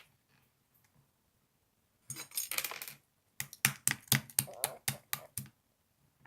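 A quick flurry of clicks lasting about a second, then after a short pause about ten separate sharp taps at roughly four to five a second, stopping about a second before the end.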